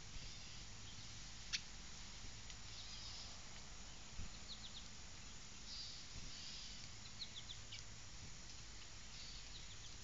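Small songbirds chirping faintly, in short quick runs of three or four high chirps, over a low steady background rumble. One sharp click stands out about one and a half seconds in.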